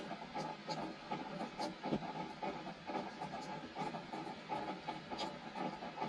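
Rain falling on a wooden deck: a dense, irregular patter of drops on the boards over a steady hiss, with now and then a sharper, brighter drip.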